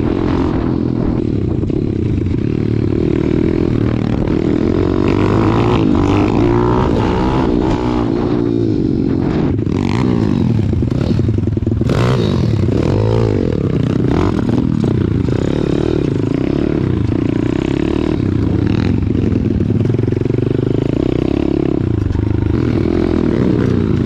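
Pit bike engine revving up and down repeatedly as the bike is ridden over rough ground, with a few sharp knocks and rattles about ten and twelve seconds in.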